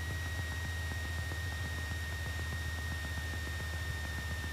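Cessna 172 cockpit audio as picked up through the headset intercom with the engine idling: a steady low hum under even hiss, with a constant high-pitched electrical whine.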